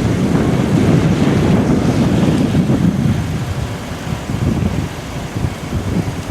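Strong wind buffeting the microphone in gusts, a loud low rumble that eases a little about halfway through.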